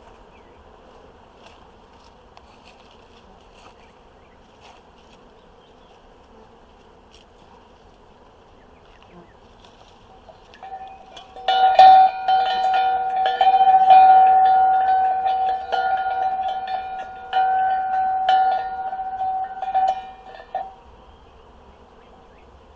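A hand bell rung over and over for about nine seconds, starting about halfway through. It rings out with a steady clanging tone, and bees hum faintly before it. The ringing is meant to settle honeybees that are starting to swarm.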